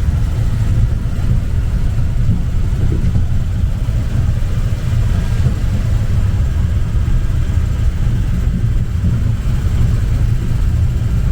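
Steady low rumble of wind buffeting the camera microphone, mixed with the running of the little land train the camera is riding on.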